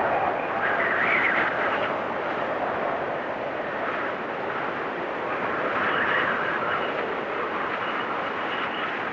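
Blizzard wind blowing steadily, with gusts that swell about a second in and again about six seconds in, giving a soft, shifting whistle.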